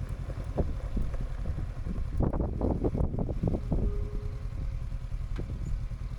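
Motorcycle engine running steadily while riding a gravel track, with wind on the microphone. A quick series of knocks and bumps comes in the middle.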